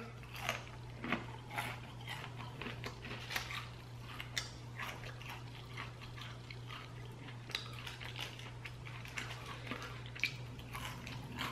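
A person biting and chewing thin, breaded fried onion strips: a run of small, irregular crunches with a steady low hum underneath.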